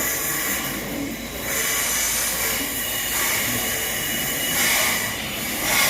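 Passenger train running, a steady rushing hiss that swells about a second and a half in and again near the end.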